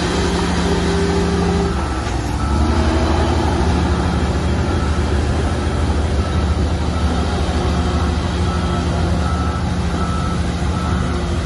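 A Shantui bulldozer's diesel engine running under load, its note shifting about two seconds in. A reversing alarm then beeps steadily, about once every three quarters of a second, as the dozer backs up.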